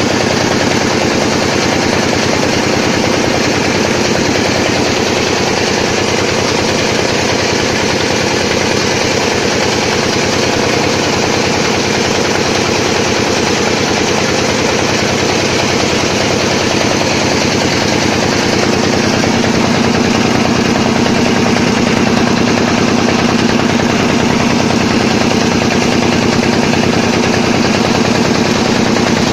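Small boat's engine running steadily, a fast even stream of firing beats with a constant hum. A steadier tone joins in about two-thirds of the way through.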